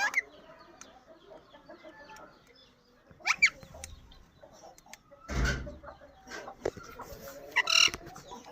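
Birds calling in short bursts: a brief chirp at the start, two quick chirps that rise and fall about three seconds in, and a louder harsh call near the end, with a short noisy burst a little past five seconds.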